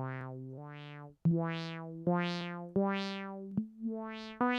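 Electronic synthesizer playing a slow melody, about six notes each starting sharply and fading, the tone of each note swelling brighter and then duller. It is the same melody reshaped by turning the synthesizer's knobs.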